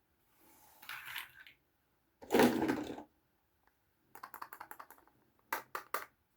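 Small plastic toy parts being handled. A rustle comes first, then a louder rattling burst, then a quick run of light clicks and three sharp clicks near the end.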